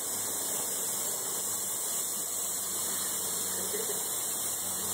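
Air hissing steadily out of a car tyre's valve as the tyre is deflated.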